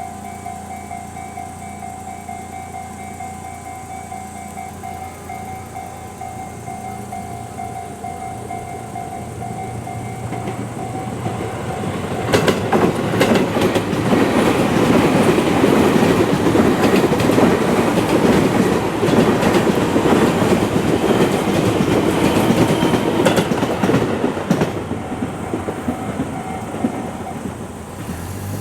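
Japanese level-crossing warning bell ringing in a steady repeating pattern, then an electric train passes through the crossing from about 12 seconds in, loud with wheels clattering over the rail joints. The train noise fades away near the end while the bell keeps ringing faintly.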